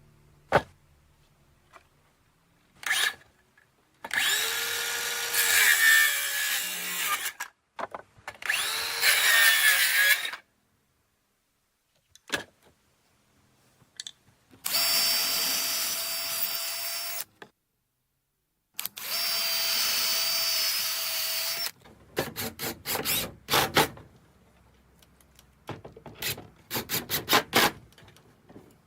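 Power drill running in several bursts of a few seconds each, working wood. Near the end come quick runs of rapid clicking.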